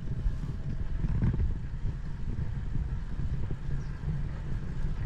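Wind rushing over the microphone of a bicycle-mounted camera while riding, heard as a steady low rumble, with tyre and road noise underneath.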